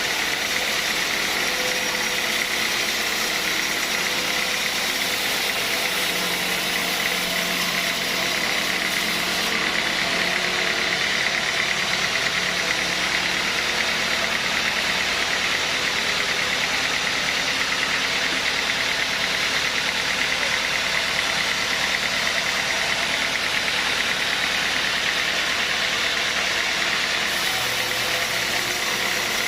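Sawmill machinery running steadily, a continuous mechanical sound with a constant high tone and no breaks.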